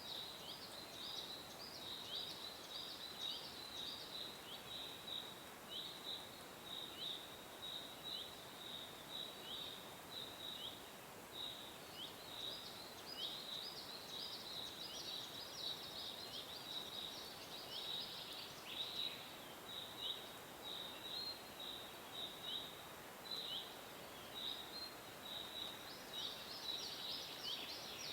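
Small birds chirping: a steady stream of short, high chirps, several a second, over a faint background hiss.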